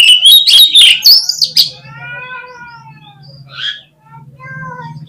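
Oriental magpie-robin in full song: a loud burst of rapid, piercing whistles and scratchy clicking notes in the first second and a half. Slower, softer drawn-out buzzy calls follow.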